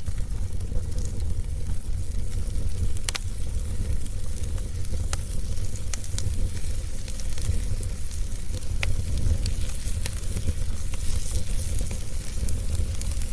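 Wood fire crackling in a fireplace, with sharp pops every second or so over a steady low rumble; one pop about three seconds in is the loudest.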